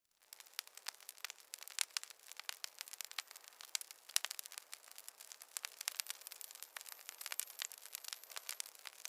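Wood fire crackling in a fireplace: a steady stream of sharp pops and snaps, several a second, over a soft hiss, fading in at the start.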